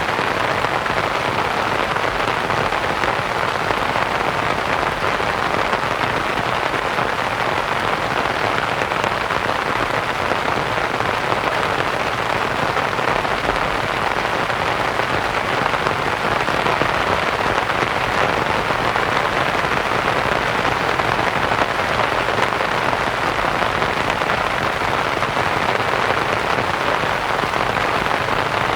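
Steady rain pattering on a canvas tent, mixed with soft white noise.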